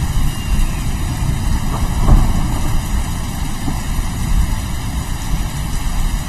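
Rain falling with a continuous deep, rolling rumble of thunder, swelling briefly about two seconds in.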